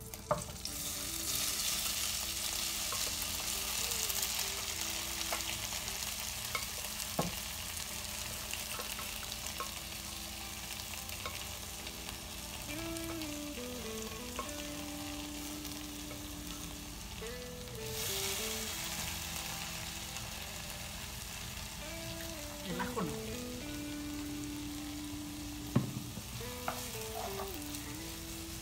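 Boiled nopal strips sizzling as they fry in hot oil in a frying pan, the sizzle starting about half a second in as they hit the oil and swelling again later. A wooden spoon stirs and knocks against the pan now and then.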